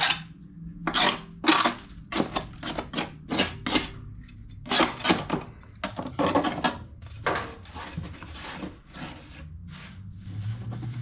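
Caked grass and dirt being scraped off the underside of a rusty steel push-mower deck: a quick, irregular run of rasping scrape strokes that grows fainter and sparser in the last few seconds.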